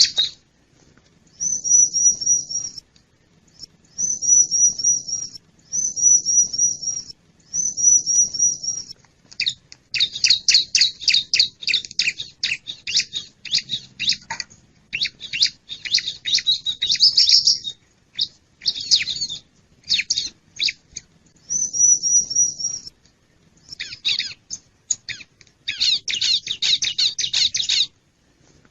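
Bar-winged prinia (ciblek) calling. Short high trilled phrases about a second and a half long repeat with brief gaps, alternating with longer runs of rapid, sharp chipping notes.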